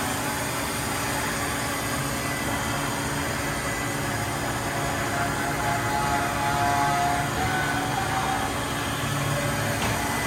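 Steady hum of running industrial machinery, with a few steady whining tones that swell and fade.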